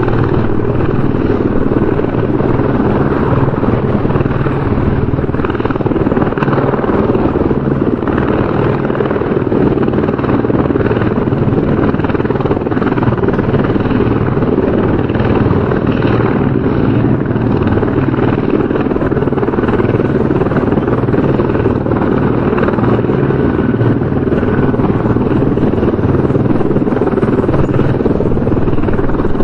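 Helicopter rotor and engine running steadily, a continuous loud rotor noise with a fine, even beat throughout.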